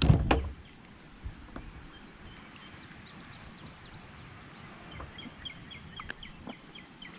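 A brief loud knock or splash right at the start, then small birds chirping repeatedly in the background, with a few faint clicks.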